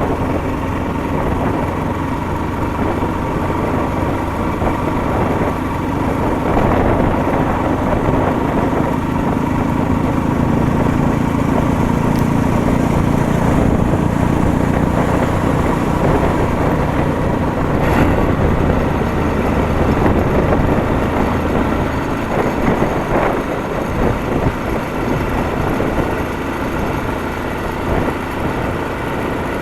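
Motorcycle engine running steadily while riding; its low note is stronger through the middle stretch. There is one sharp click a little past halfway.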